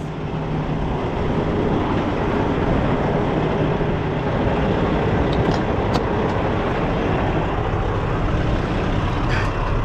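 Truck diesel engine running steadily at idle, a constant rumble with a low hum.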